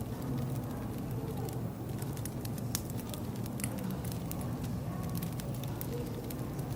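Wood fire crackling, with irregular small pops and snaps over a steady low rumble.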